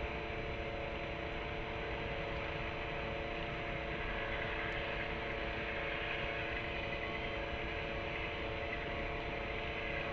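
Steady background hum and hiss of city noise and machinery, with several steady tones running through it.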